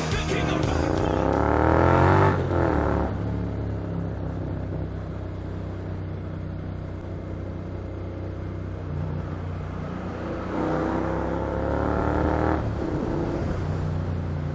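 Motorcycle engine accelerating. Its note rises over the first couple of seconds and drops at a gear change, then runs steadily. It rises again and shifts once more near the end.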